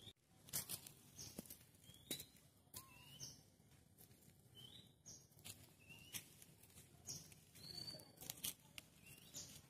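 Faint chirping of small birds: short, high, rising notes repeated about once a second, with scattered light clicks.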